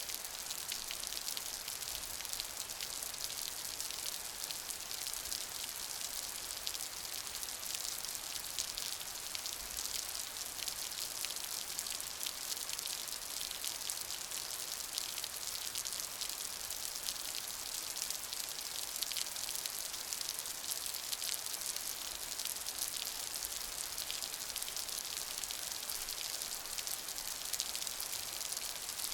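Steady rain falling, a dense hiss with countless fine drops pattering on a surface.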